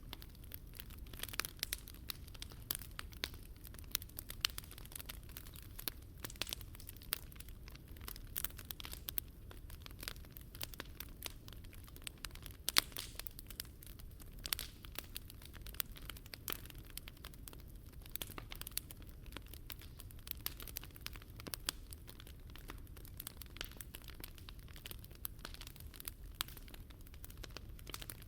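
Wood fire crackling, with frequent small irregular pops and one sharper pop about halfway through, over a low steady rumble.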